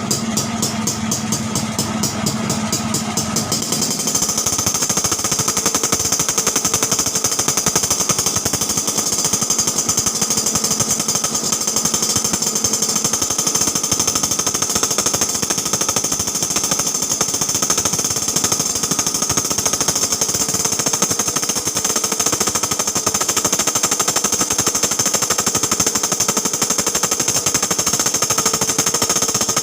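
Yamaha RX-King single-cylinder two-stroke engine running through an open exhaust with an Alfa-type baffle insert. It pulses evenly at a fast idle, then about four seconds in is revved up and held at high revs as a dense, rapid rattling exhaust note.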